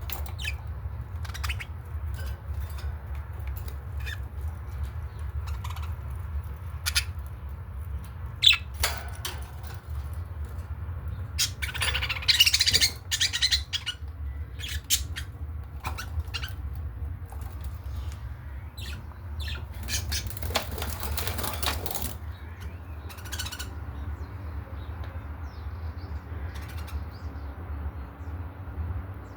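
Budgerigars making short sharp chirps and squawks, with bursts of wing flapping about twelve seconds in and again around twenty seconds in, over a steady low rumble.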